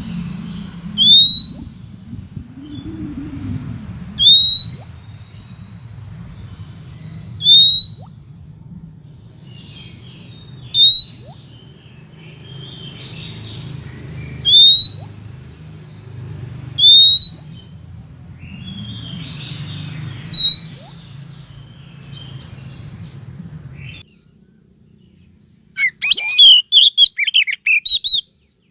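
Female oriental magpie-robin giving one loud rising whistle every three to four seconds, seven times, then a short burst of quick varied chirps near the end. It is a recorded lure call, played to draw in male magpie-robins.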